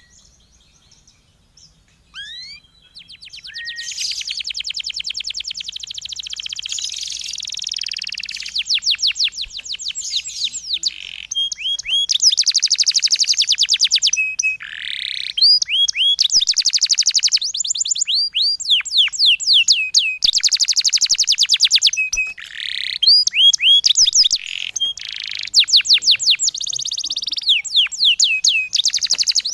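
Songbird singing fast rolling 'tembakan' phrases: long, rapid runs of repeated high, downward-sweeping notes with short breaks, after a few short chirps near the start. The phrases get louder about halfway through.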